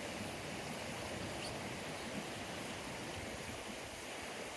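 Steady rushing of a small wild stream.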